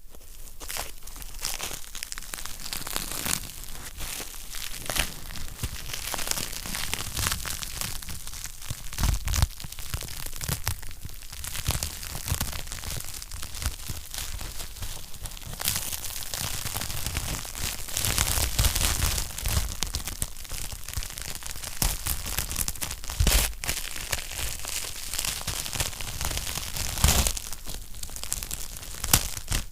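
Wood fire crackling in a fireplace: a steady stream of small crackles and hiss, with several louder pops.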